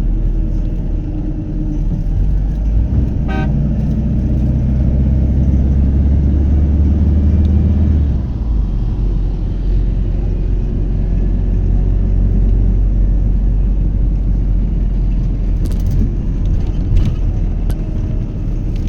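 Road traffic: motor vehicle engines running as a steady low rumble, louder for a few seconds near the start, with a brief horn toot about three seconds in.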